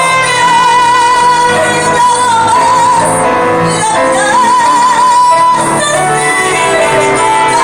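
A woman singing a copla ballad with piano accompaniment, holding two long notes with wide vibrato, the second starting a little past the middle.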